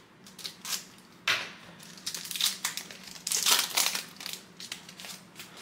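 Trading-card pack wrapper being crinkled and torn open by hand, in irregular rustling bursts, loudest a little past the middle.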